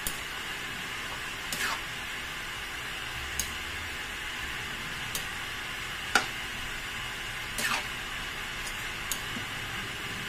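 Chopped pork and liver sizzling steadily in a metal wok while a metal ladle stirs, scraping and clinking against the pan several times; the sharpest clink comes about six seconds in.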